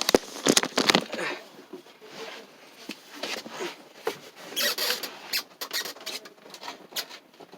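Scattered sharp clicks, knocks and rustling: a dense cluster in the first second, and another from about three to five seconds in.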